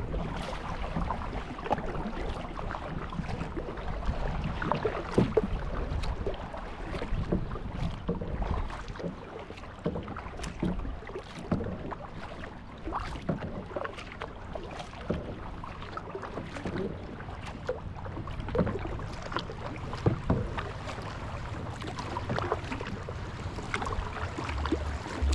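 Kayak paddling on open water: a run of irregular small splashes and drips as the paddle blades dip in and lift out, over a steady wash of water.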